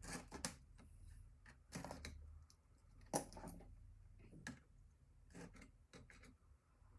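Faint, irregular small clicks and taps of computer parts and tools being handled during disassembly, about a dozen scattered ticks over a low steady hum.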